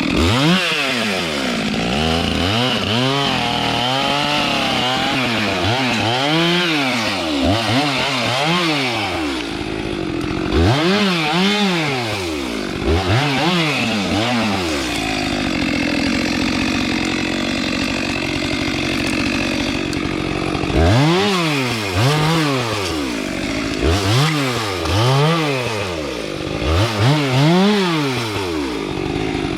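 Two-stroke chainsaw revving, its pitch rising and falling about once a second, held at a fairly steady pitch for about six seconds midway through.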